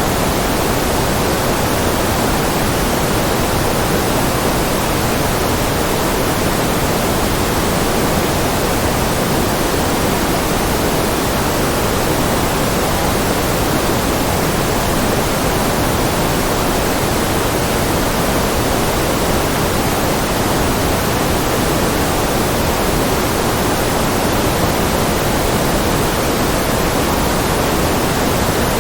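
Constant, electronically generated white noise: an even, unchanging hiss, fuller in the low and middle range than in the treble.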